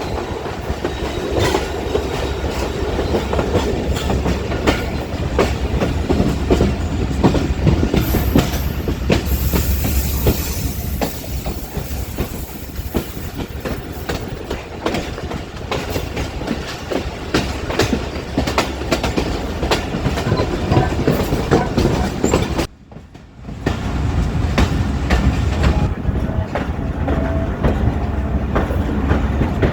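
A train running past on the track, its wheels clattering rapidly over the rail joints, with a brief high-pitched wheel squeal about a third of the way in. The sound drops out for under a second about three-quarters of the way through, then the clatter resumes.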